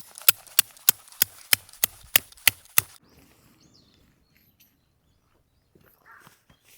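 Rapid, evenly spaced sharp knocks, about three a second and about ten in all, that stop abruptly about three seconds in; then only faint low rustling.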